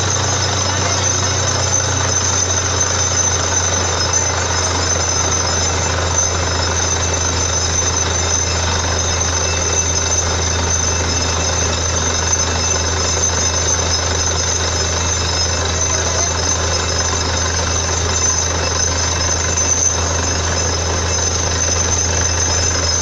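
Borewell drilling rig running steadily: a loud, constant low engine drone with a rattling hammering noise and a steady high whine.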